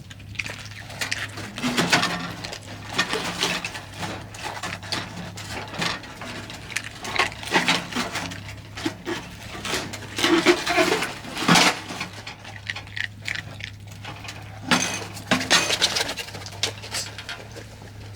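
Repeated clinks, knocks and rattles of small hard objects being handled, over a steady low hum.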